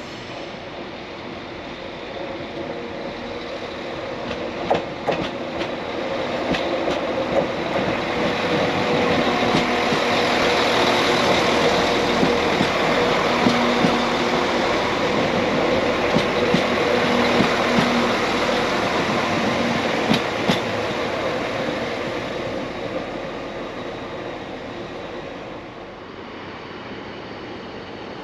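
A train moving past on the rails, growing louder over about ten seconds and then fading away, with scattered sharp clicks from the wheels and track.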